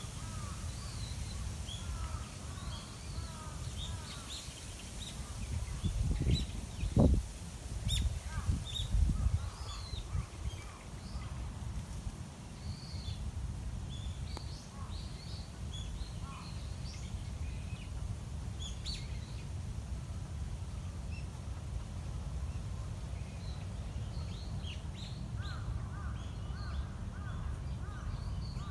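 Many small birds chirping and calling on and off in short high notes over a steady low background rumble. A louder low rush of noise comes between about six and ten seconds in, and near the end a run of quick, repeated, lower-pitched calls starts.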